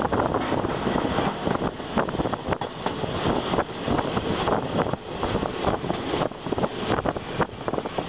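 Passenger train running along the track, heard from an open carriage window: steady wind buffeting the microphone over the rumble and irregular clatter of wheels on the rails.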